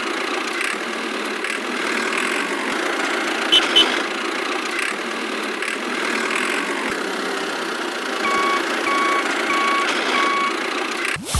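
Miniature RC construction vehicle running with a steady mechanical hum and two quick clicks, then four evenly spaced reversing beeps near the end.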